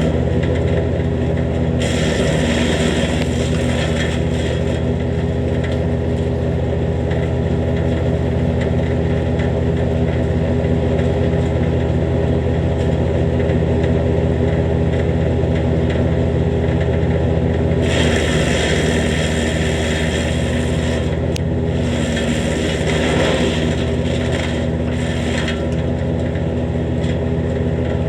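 Jansen GTS-1500 wood chipper running steadily, its engine holding a constant speed, with stretches of harsher grinding as brush is chipped, a couple of seconds near the start and again for several seconds past the middle. The chipper has a freshly adjusted bed knife and new blades, and runs smoothly.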